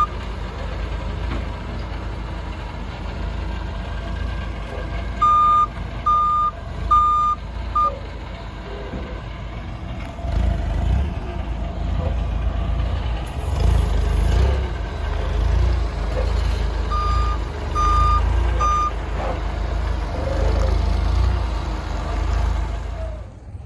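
Vehicle backup alarm beeping in two runs: four beeps about five seconds in and three more about seventeen seconds in, each roughly 0.8 s apart. A steady low engine rumble runs underneath.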